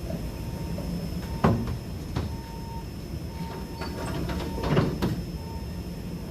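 Three metal clanks and thumps, about a second and a half in, at two seconds and near five seconds, from a cargo strap and its hardware being thrown over a flatbed load. A steady low engine hum runs underneath.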